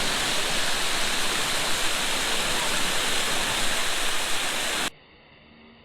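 Water rushing steadily over a dam, a loud even wash of noise that cuts off suddenly near the end.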